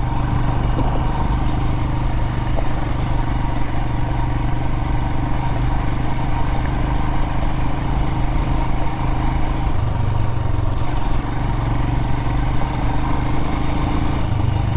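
Royal Enfield Himalayan's single-cylinder engine running steadily while the motorcycle is ridden along a rough dirt road.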